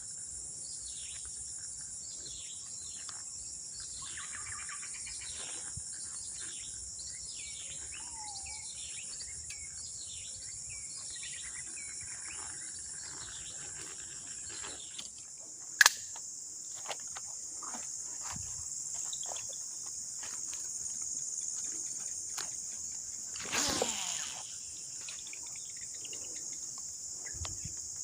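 Steady, high-pitched insect chorus of crickets or cicadas, with many short falling bird-like chirps through the first half. A single sharp click about 16 s in and a brief noisy rustle near 24 s stand out above it.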